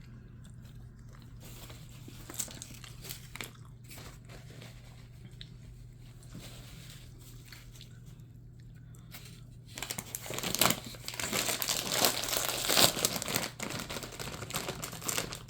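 Faint chewing clicks, then from about ten seconds in, a bag of kettle chips being handled and opened, with loud, dense crinkling of the foil bag.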